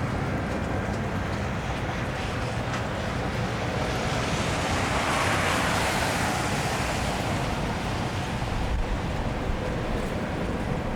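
Steady rain on a wet street, with a car passing on the wet road about halfway through: its tyre hiss swells, peaks, and fades away.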